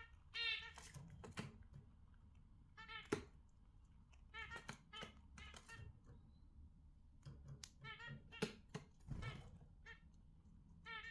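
Pet budgerigars chirping and warbling in short bursts, with scattered sharp clicks among the calls.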